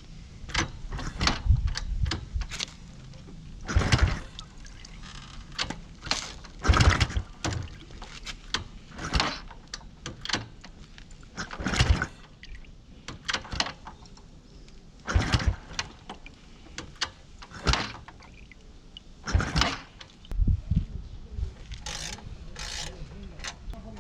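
Scattered knocks, clicks and scrapes of tools and parts being handled during motorcycle maintenance, coming a second or two apart.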